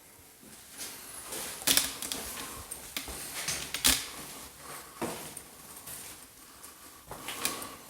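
A few sharp clacks and knocks among rustling and crunching, the loudest about two and four seconds in.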